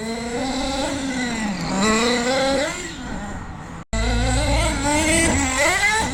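RC car's Hot Bodies .18 nitro engine running, its pitch rising and falling as it is throttled up and back off. The sound breaks off for an instant just before four seconds in, then resumes with a low rumble underneath.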